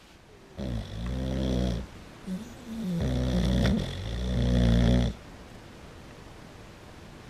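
Boxer dog snoring very loudly in a few long, deep breaths, the last ending about five seconds in.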